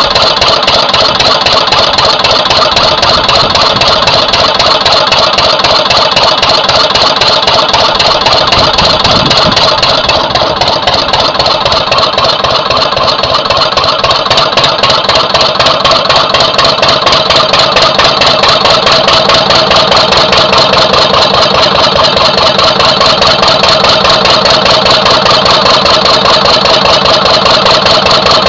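Twin-cylinder Lister CS stationary diesel engine running steadily with a fast, even beat, with a slight dip for a few seconds about ten seconds in. The owner judges cylinder two still slightly weaker than number one.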